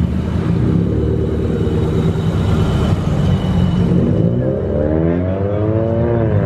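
Modified car's engine and exhaust accelerating away: a steady low rumble, then the pitch climbs for about two seconds and drops sharply near the end.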